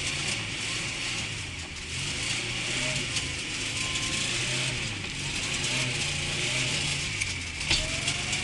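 Car engine running with its revs shifting up and down, along with a steady hiss and some mechanical rattling, heard from inside the moving car. A few sharp clicks come near the end.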